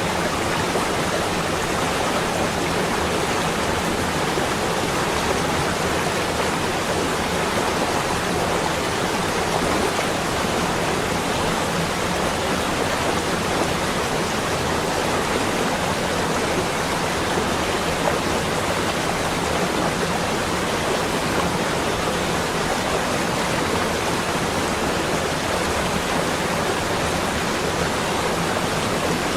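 A steady, unbroken rushing noise that does not change.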